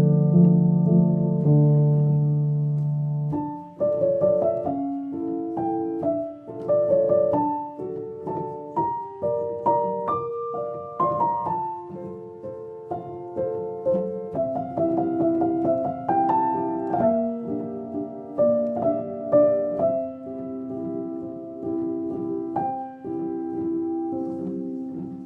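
Background piano music: held chords for the first few seconds, then a melody of single notes over lower accompanying notes.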